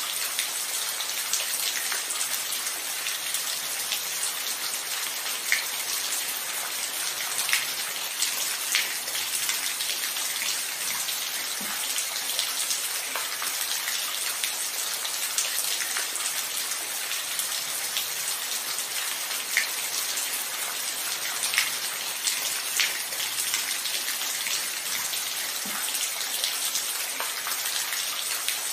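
Steady rain falling, an even hiss with close, distinct drops ticking every second or so.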